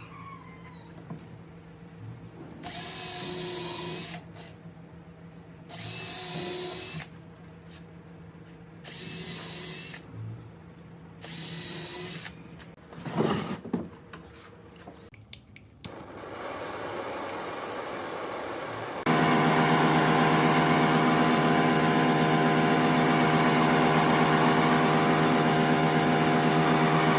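Several short, second-long bursts of scraping, hissing noise from working wood. Then, from about two-thirds of the way in, an electric power tool's motor runs steadily and loudly.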